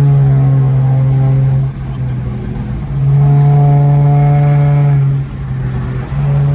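A loud, steady vehicle drone held at one fixed pitch. It falls away twice and comes back.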